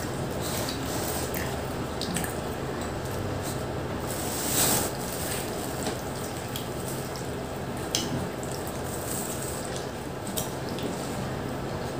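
Close-up eating sounds of pizza being chewed, with scattered wet smacks and clicks over a steady background hiss. There is one louder, longer noise near the middle.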